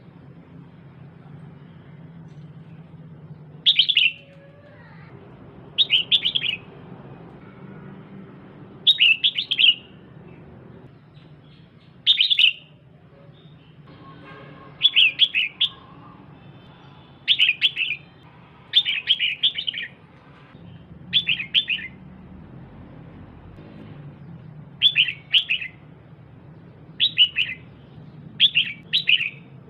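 Female red-whiskered bulbul calling in short bursts of quick, high notes, one burst every two to three seconds, over a faint low hum.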